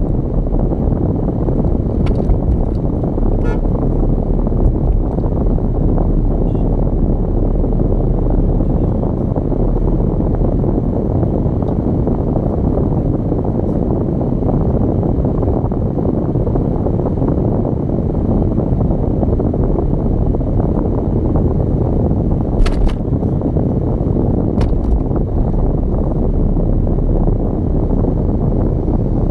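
Steady low rumble of road and wind noise from a moving car, with a few sharp clicks or knocks, the loudest about 23 seconds in.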